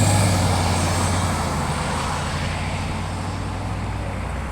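Scania OmniLink I bus's diesel engine running, a steady low drone with road and cabin noise over it.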